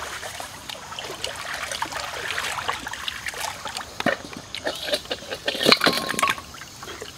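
Wet chewing and lip-smacking of someone eating roast chicken with their hands: a run of short clicks and smacks, loudest in a cluster about five to six seconds in.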